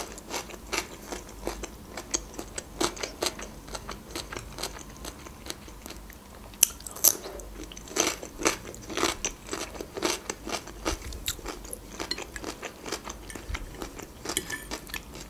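Close-up crunching and chewing of fresh cucumber: a string of crisp, irregular crunches, several a second, loudest around the middle.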